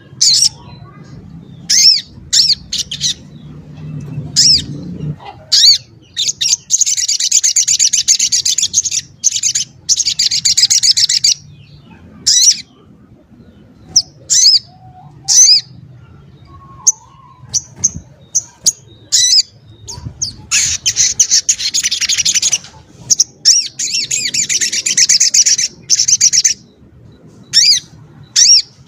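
A small songbird, the sogok ontong (also called sogon ontong), singing: rapid, high, dense trilled phrases lasting a few seconds each, broken up by short sharp chirps.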